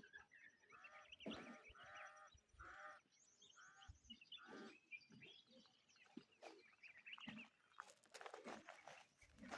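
Faint calls of farm birds: a series of about six short calls in the first half, then quieter scattered sounds.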